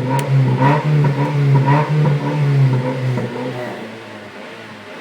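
2008 Mazda 3 GT's 2.3 L four-cylinder engine revved in quick throttle blips, about two a second, through an open electronic exhaust cutout. About three and a half seconds in the revving stops and the engine drops to a much quieter idle.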